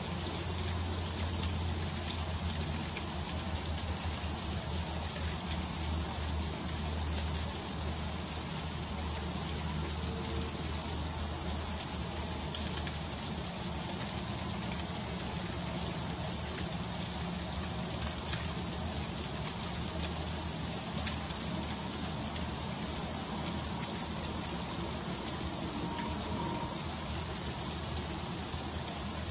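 Freezing rain falling steadily, a dense patter of fine ticks as the drops hit icy surfaces, with a low steady hum underneath.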